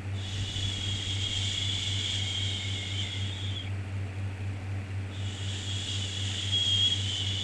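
Long drawn-out "shhh" shushing for soothing a baby: two shushes of about three and a half seconds each, with a pause of about a second and a half between, over a steady low hum.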